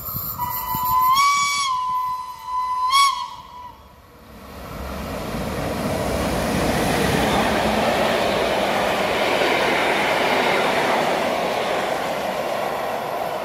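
A vintage train's whistle: a long blast that rises in pitch and settles back, then a short toot about three seconds in. Then the train passes close by, its wheels rumbling on the rails in a steady rush of noise.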